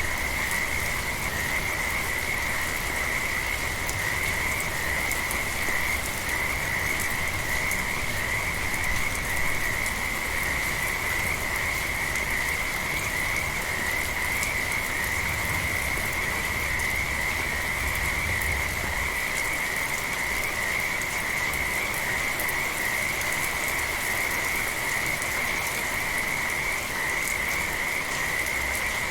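A chorus of frogs calling without a break in a steady high trill, over soft rain falling.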